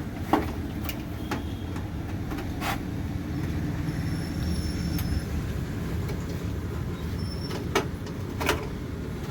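A handful of sharp, irregular clicks and taps as a motherboard and screws are handled inside a metal PC cabinet, over a steady low rumble.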